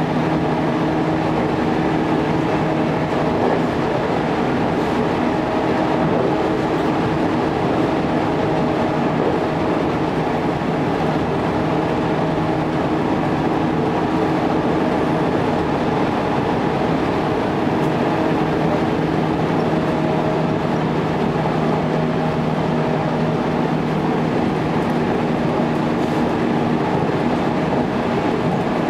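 JR electric local train running along the track, heard from inside the car: a steady rumble of wheels on rails with a low hum that fades in and out.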